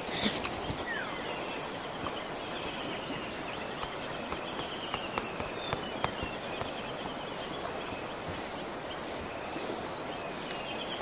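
Birds calling, with short rapid trills that repeat every couple of seconds over a steady outdoor hiss. One sharper call comes about a quarter second in.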